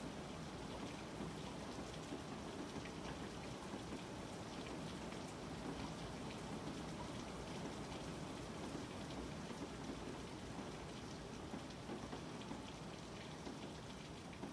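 Steady rain falling, an even hiss flecked with faint ticks of single drops.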